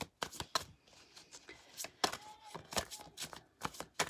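Tarot cards being handled and laid down: an irregular string of sharp papery snaps and taps, about two or three a second.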